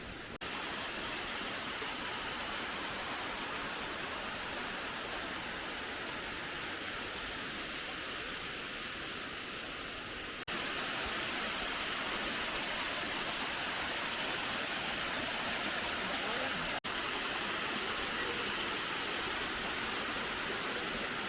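Steady rush of falling water from the Sri Gethuk waterfall. It breaks off for an instant about ten and seventeen seconds in, and is slightly louder after the first break.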